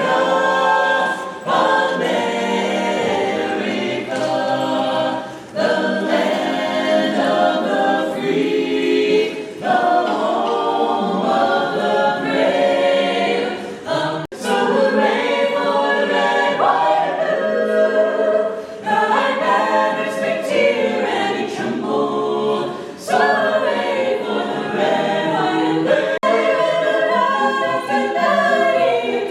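A choir of several voices singing a cappella, phrase after phrase with short breaths between.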